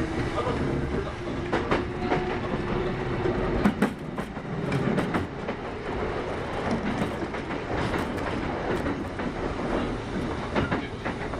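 Kintetsu 8810-series electric train running at speed, with a steady rumble and short clicks of the wheels over rail joints.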